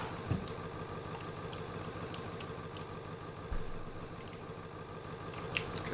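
Truck engine idling steadily while it warms up, with scattered light clicks and ticks over it.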